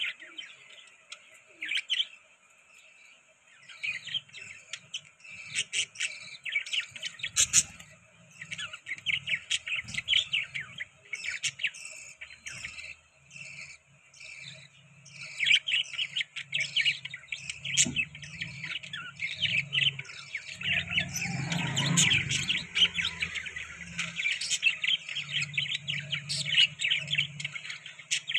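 A flock of budgies chattering and chirping: a dense, rapid run of short high chirps that comes in bursts and grows busier in the second half. A low rumbling noise sits underneath, strongest about three-quarters of the way through.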